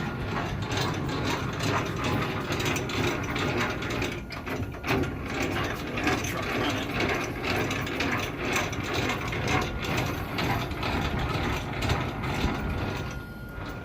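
Continuous mechanical ratcheting clatter, like gears or a ratchet being worked, dense with small clicks. It stops about a second before the end.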